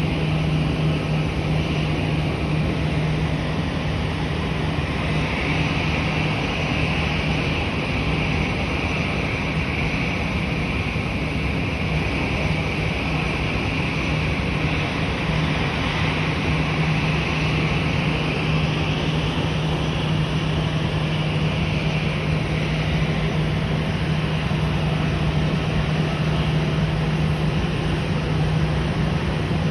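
Boeing 777 jet engines and airflow in a steady drone: a constant low hum under a broad hiss, with no change in power.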